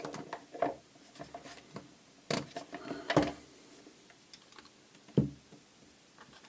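Irregular clicks and knocks of tools and small parts being handled during pump disassembly, with the sharpest knocks about two, three and five seconds in.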